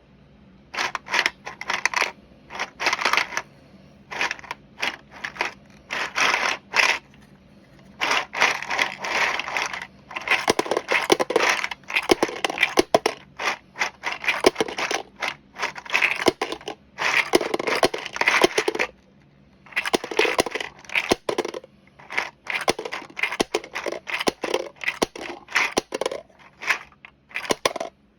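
Bullets clattering and rattling in a 3D-printed plastic bullet feeder, in irregular bursts of a second or two full of sharp clicks, with short pauses between.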